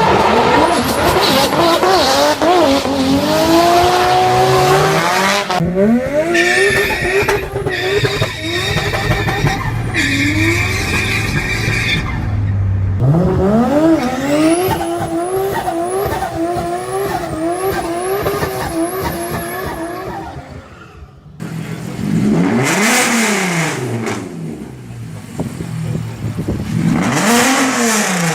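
Modified car engines revving and accelerating in a run of short clips. The engine pitch climbs and drops repeatedly, with abrupt changes from one car to the next, and ends with two rev sweeps up and back down.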